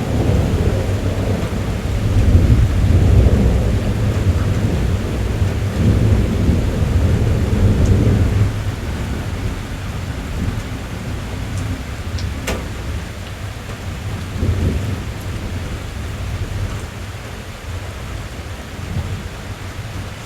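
Rain on a car's roof and glass, heard from inside the cabin, under a low rolling rumble of thunder that dies away about halfway through. A few sharp drop ticks stand out over the steady patter.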